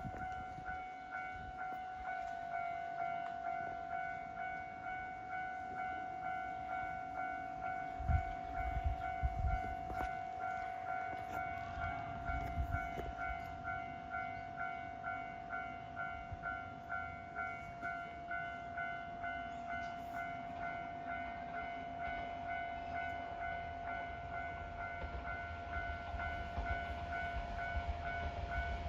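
Japanese railway level-crossing warning bell ringing steadily at about two strokes a second. A low rumble grows beneath it near the end.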